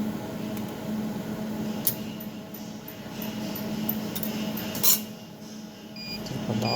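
200-watt jewelry laser welding machine humming steadily. A run of sharp clicks and one louder snap come about two thirds of the way through, then short electronic beeps near the end.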